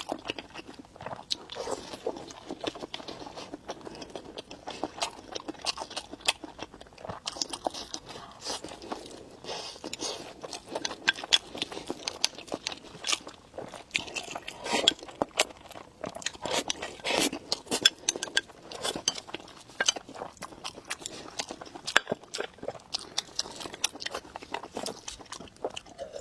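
Close-miked eating: crunchy bites and chewing with wet mouth clicks, coming irregularly and densely throughout.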